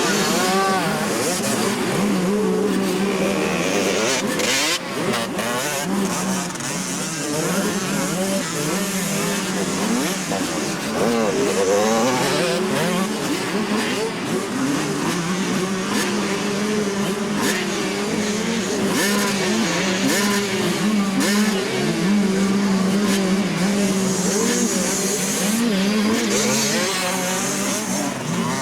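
Several 80cc two-stroke motocross bikes racing, their engines revving up and falling back again and again, many overlapping engine notes rising and falling at once.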